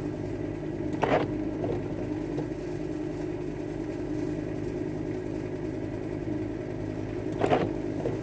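Van engine running at low revs, a steady low hum heard from inside the cab, with two brief louder noises, one about a second in and one near the end.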